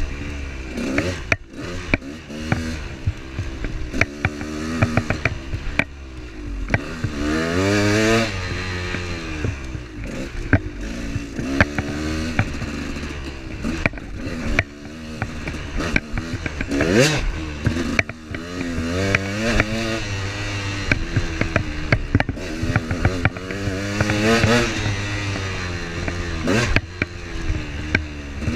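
A vehicle engine driving a rough unpaved forest road, its pitch rising and falling again and again with the throttle, with frequent clatter and knocks from stones and the rough surface.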